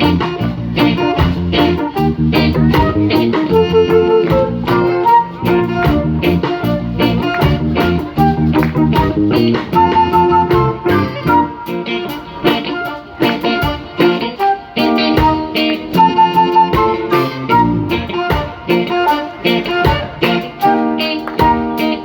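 Live reggae band playing an instrumental passage with guitar and drums.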